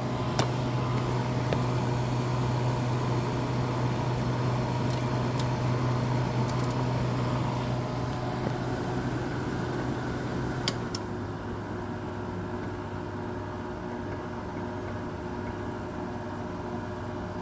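1999 Whirlpool 5000 BTU window air conditioner running on cool, its fan and LG rotary compressor giving a steady low hum with a few sharp clicks. About 11 s in, after two clicks, the hum drops to a lower, quieter pitch. The owner says the fan motor does not sound all that healthy.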